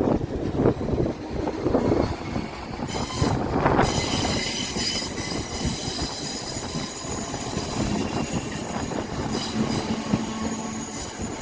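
Passenger train moving along the platform, with a rumble and a high squeal and whine from its wheels and running gear that set in about three seconds in. Wind buffets the microphone in the first couple of seconds.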